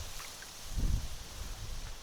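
Strong wind buffeting the microphone in low rumbling gusts, one about a second in, over a steady hiss of wind and water.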